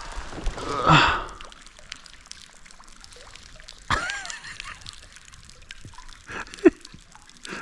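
Water trickling and dripping close by at a kayak, with a short rushing splash about a second in and small scattered drips after.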